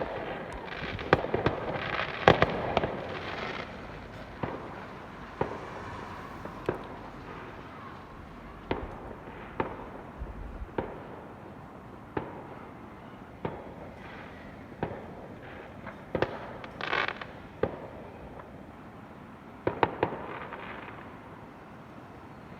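Fireworks going off: a string of sharp bangs at irregular intervals, roughly one every second or so, with short bursts of crackling among them.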